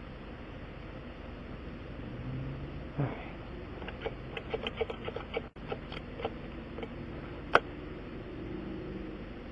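Hand tools knocking and clicking during a tire puncture repair: a knock, then a run of small irregular clicks and taps, and one sharp loud click near the end, over a steady background noise.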